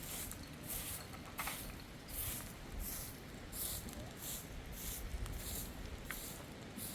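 Hand shears cutting sheep's wool, a steady run of crisp snipping strokes about one every 0.7 seconds.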